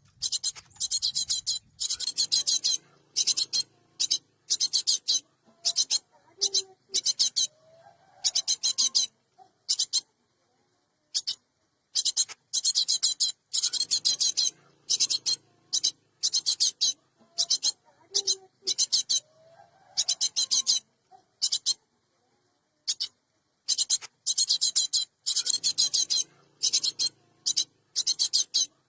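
Cinereous tit (gelatik batu) calling: clusters of rapid, harsh, high-pitched notes separated by short pauses, the sequence repeating about every twelve seconds.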